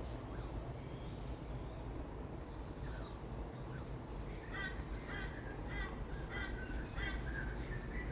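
A bird calling repeatedly: about seven short, harsh calls in a row, beginning about halfway through.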